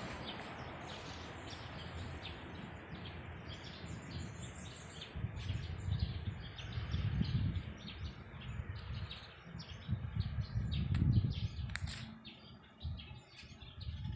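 Many birds chirping in quick, short calls throughout. A broad rushing noise fades away over the first couple of seconds, and low rumbling bursts come and go from about five seconds in.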